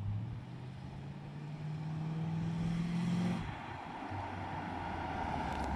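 Car engine accelerating, its pitch climbing steadily. It drops back about three and a half seconds in, as at a gear change, and then climbs again.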